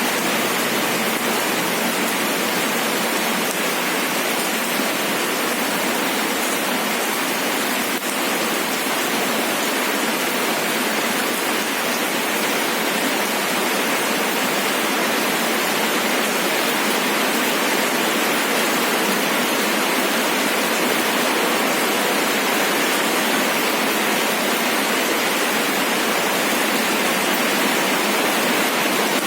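Steady rain falling, an even unbroken hiss with no thunder or separate drops standing out.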